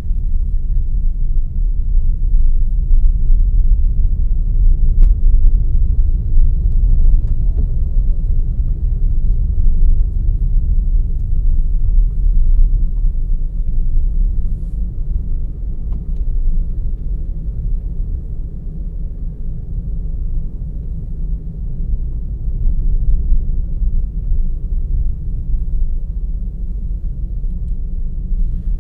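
A car driving, recorded by an onboard camera: a steady low rumble of engine and road noise, with a faint click about five seconds in.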